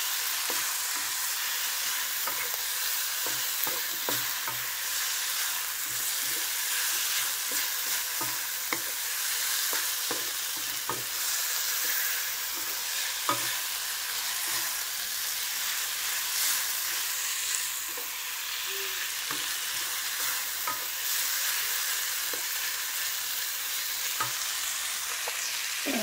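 Sliced bamboo shoots sizzling steadily in oil in a non-stick wok while a wooden spatula stirs them, with scattered clicks and scrapes of the spatula against the pan.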